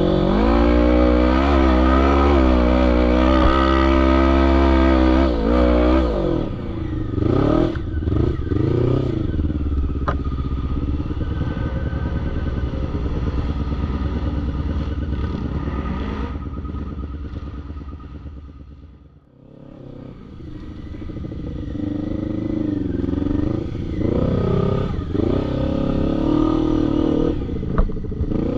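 Quad bike (ATV) engine revving hard and easing off in turns, loudest in the first six seconds, fading down about two-thirds of the way through, then revving up again.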